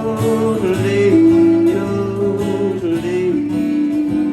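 Country music with guitar accompaniment while a singer holds a closing yodel, its held note stepping down in pitch a few times.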